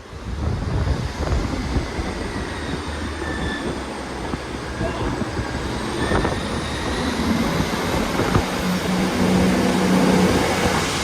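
Class 158 diesel multiple unit pulling away from the platform, its diesel engines working under power and growing steadily louder, with a thin high whine rising in pitch over the second half.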